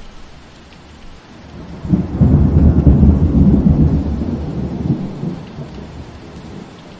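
Steady rain with a roll of thunder that comes in sharply about two seconds in, rumbles low for a few seconds and fades back under the rain.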